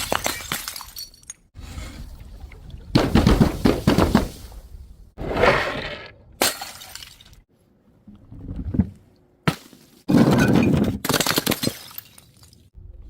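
Glass bottles breaking one after another: several separate crashes of shattering glass with clinking shards, loudest about three seconds in and again about ten seconds in, with short pauses between.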